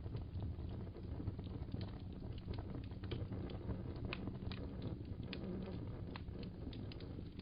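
Wood fire crackling steadily: irregular sharp pops and snaps, several a second, over a low rumble of burning.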